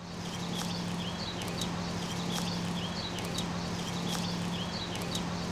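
Outdoor ambience: a small bird chirps over and over, about two to three short chirps a second, over a steady low hum.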